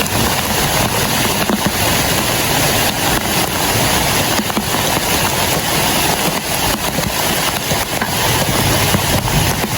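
Heavy rain pouring down: a loud, dense, steady rush.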